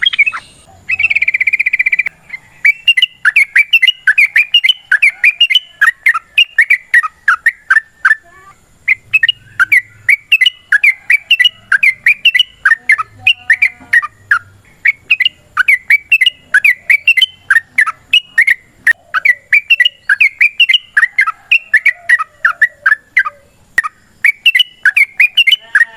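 Yellow-vented bulbul singing long, rapid, bubbling phrases almost without pause, with a short buzzy note about a second in and brief breaks a third of the way through and near the end.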